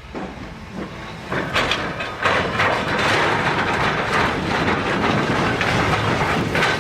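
Train passing close by, the rumble and clatter of its wheels on the rails growing loud about a second and a half in and staying loud.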